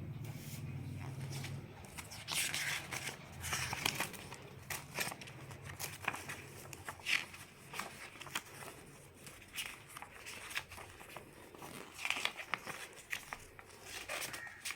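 Irregular rustling and crinkling as the soundbar's user manual and other paper documentation are handled and unwrapped, with scattered small clicks.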